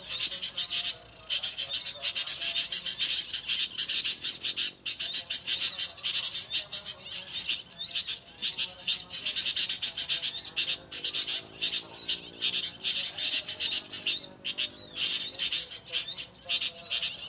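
Small birds chirping and twittering rapidly and continuously in high-pitched calls, with a couple of brief breaks.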